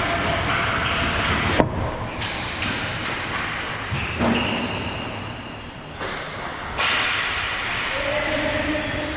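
Game noise in a large indoor hall: short high squeaks, a sharp crack about one and a half seconds in, a few lighter knocks and distant voices.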